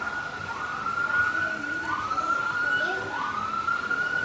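Siren wailing, its tone repeatedly sweeping up and holding, starting over about once a second.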